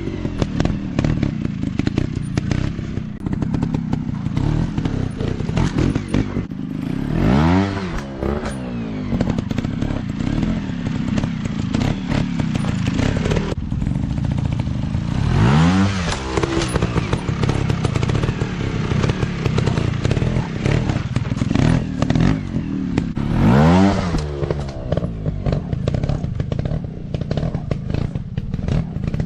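Dirt bike engines running, with a bike revving up hard three times, about eight seconds apart, each a quick rising rev over the steady engine noise.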